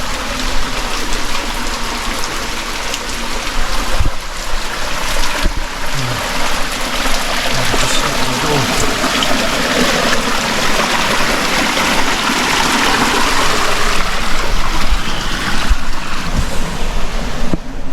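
Running water of a small canyon waterfall and stream: a steady rushing splash that grows louder in the second half, with a few faint knocks.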